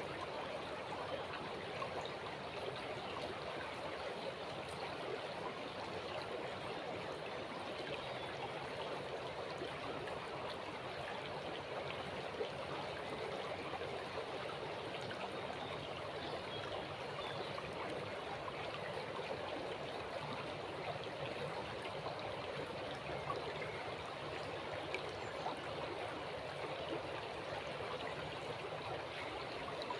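River water flowing: a steady rush of running water with many small splashes and trickles in it.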